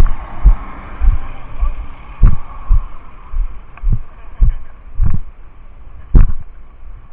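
Dull low thumps about twice a second, in an uneven walking rhythm: footsteps jolting a body-worn camera while its wearer walks.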